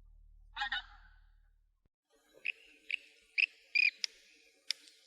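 Bird calls: a brief call about half a second in, then after a short gap a run of short, sharp calls repeated about twice a second.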